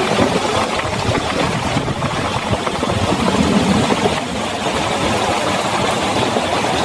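Heavy rain falling hard, a loud, dense, steady patter of drops.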